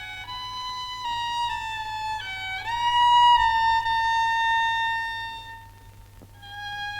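Solo violin playing a slow melody in the high register. About two and a half seconds in it slides up into a long held note that fades away, and after a short pause a new phrase begins.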